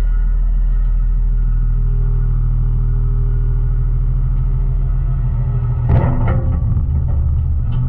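Garbage truck's engine running, a loud, steady low rumble, with a brief burst of clattering about six seconds in.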